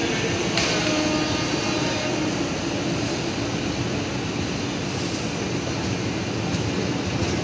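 Indian Railways express coaches rolling past a platform: a steady rumble and clatter of wheels on the rails. There is a sudden metallic ring about half a second in.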